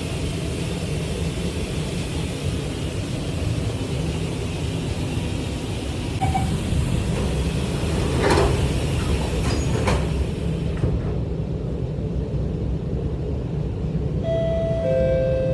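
R151 MRT train running, heard inside the car: a steady low rumble from under the floor, which the uploader calls a strange sound below the train. Two sharp knocks come about 8 and 10 seconds in, and near the end a two-note chime sounds, the second note lower.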